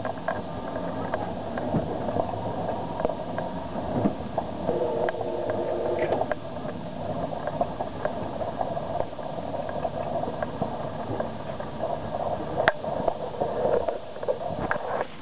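Sailboat under sail at about 8 knots, water rushing and gurgling along the hull as it rides the waves, with scattered short knocks and one sharper click near the end.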